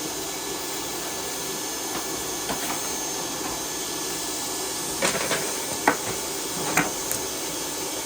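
A vacuum running with a steady whooshing drone, and a few sharp clicks and taps of tools on metal about five to seven seconds in.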